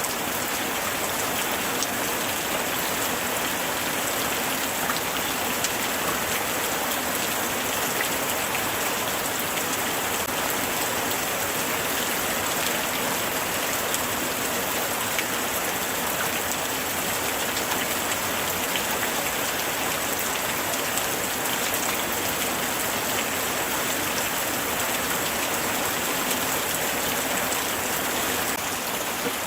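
Steady light rain falling, a continuous hiss dotted with many small, sharp drop ticks.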